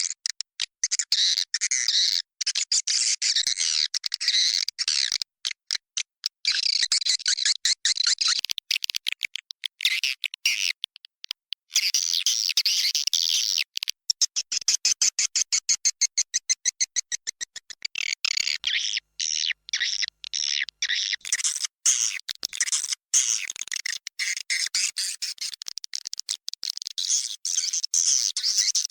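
Swiftlet lure call: a recording of swiftlets twittering and chirping, broken by rapid clicks, made to draw the birds into a nesting house. Through the middle the chirping gives way to a fast, even train of clicks before the dense twittering returns.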